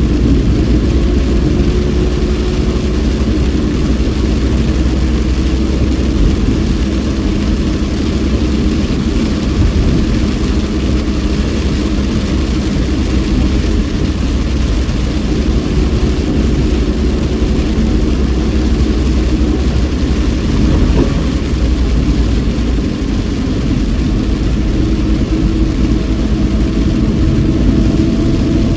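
Steady car interior noise while driving in heavy rain: a low engine and road rumble with a constant hiss of rain and tyre spray.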